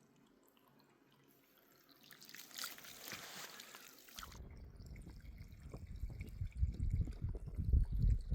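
Running water trickling and dripping, with a hissing splash from about two seconds in. Just past halfway the sound cuts abruptly to a louder low rumble that grows toward the end.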